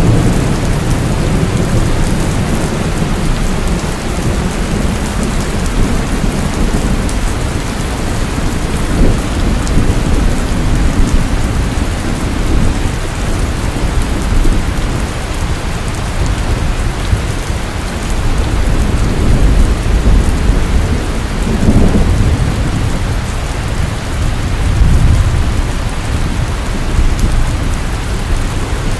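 Steady heavy rainfall, with low rumbles of thunder swelling and fading a few times.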